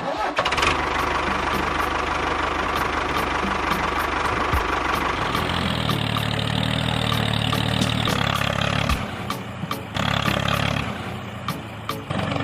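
A small motor running steadily. Its low tone shifts about five and a half seconds in, and the level dips briefly around nine seconds and again near eleven seconds.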